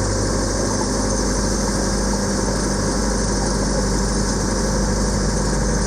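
Training motorboat's engine running steadily under way, with a continuous hum of engine tones over a wash of noise.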